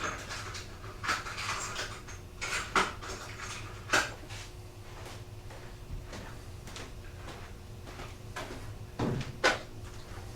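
Scattered plastic clicks and rustles of a motorcycle fuse box being opened and its fuses handled, with the sharpest click about four seconds in and two more near the end. A faint steady hum runs underneath.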